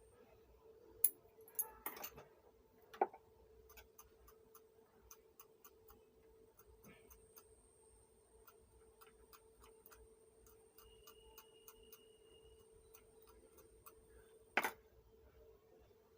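Faint, even ticking, about two or three ticks a second, over a steady low hum, with a couple of sharper clicks early on and one louder knock near the end.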